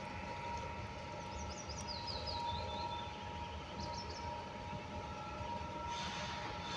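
Outdoor background: a steady hum over a low rumble, with two brief runs of faint, high, falling chirps, about a second and a half in and again about four seconds in. A broad hiss swells near the end.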